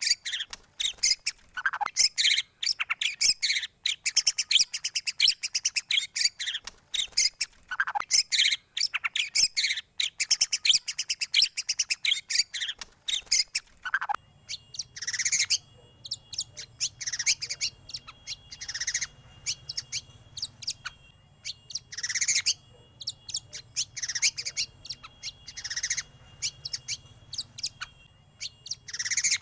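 Recorded songbird song played as a lure track for white-rumped shamas: dense, rapid chirping and whistling. About halfway through it changes to a different recording, with sweeping calls about every second and a half over a steady high tone.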